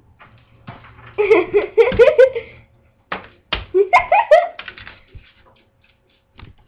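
A person's high voice in two short bursts about a second apart, sounding like giggling, with a few sharp knocks.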